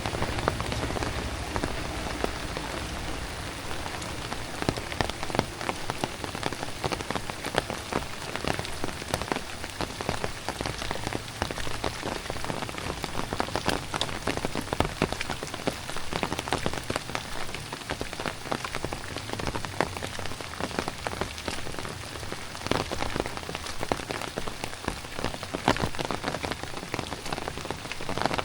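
Heavy tropical rain falling steadily, with a dense spatter of sharp raindrop hits close by.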